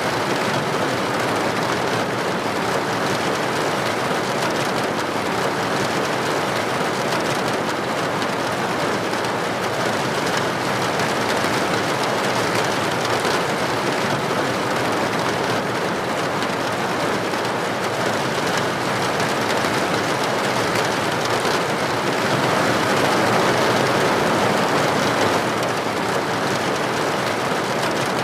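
Steady rain falling, an even hiss with no distinct drops, briefly a little louder about 22 seconds in.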